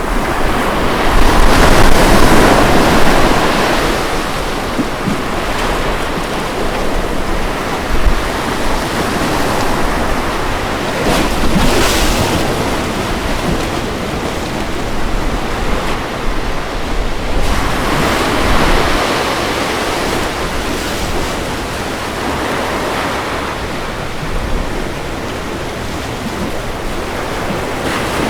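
Ocean waves breaking and washing up on a beach in a continuous rush. The sound swells with each wave, the loudest surge in the first few seconds.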